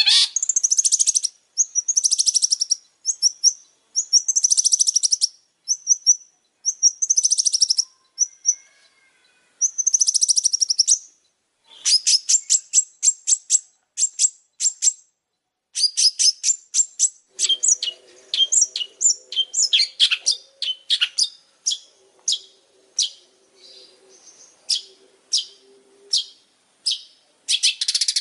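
Long-tailed shrike singing non-stop: high, buzzy chattering phrases of half a second to a second at first, then from about halfway quick strings of short, sharp notes.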